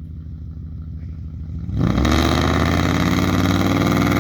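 Straight-piped BMW 740i's M62 V8, no catalytic converters or resonators, idling, then about two seconds in the revs jump and hold high and very loud under hard acceleration, climbing slowly.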